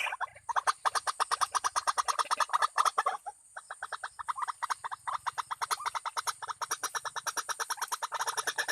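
White-breasted waterhen calls, the bird's harsh repeated 'ruak' notes in a fast string of about nine a second, with a short break about three seconds in. This is the call used to lure the birds.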